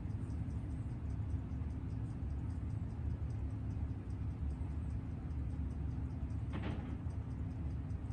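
Rapid, even ticking of a freshly serviced Seiko 6138 automatic chronograph movement running in on a timegrapher, faint over a steady low hum. A brief rustle comes about six and a half seconds in.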